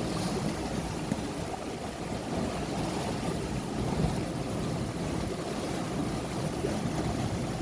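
Steady rush of water along the hull of a sailing yacht moving fast under sail, with wind buffeting the microphone.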